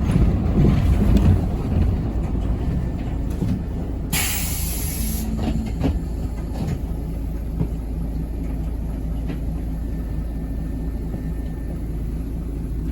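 Steady low rumble of a city bus heard from inside the cabin, with a sharp hiss of air lasting about a second, roughly four seconds in, from the bus's air system.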